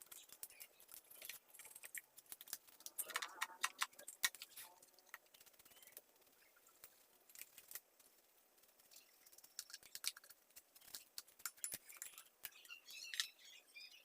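Scattered faint clicks, taps and light rattles of small hard parts and tools being handled, with busier clusters about three seconds in, around ten to twelve seconds, and near the end.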